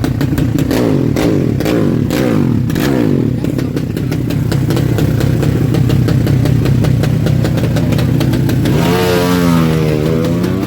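Honda Karisma motorcycle engine running loudly and being revved, its pitch gliding up and down; about nine seconds in the engine note dips and then climbs again in one strong rev.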